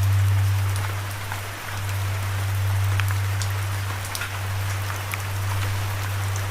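Steady rain falling, an even hiss with scattered sharp drop ticks, over a loud low sustained drone that dips briefly about one and a half seconds in.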